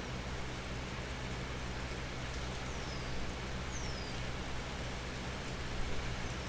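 Steady rain falling, an even hiss of drops, over a low steady hum. About three seconds in come two short, high, falling whistles.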